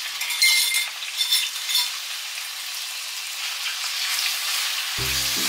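Raw chicken pieces sizzling in hot oil in a nonstick wok. A metal spoon scrapes and clinks against a glass bowl a few times in the first two seconds, then a spatula stirs the chicken in the pan.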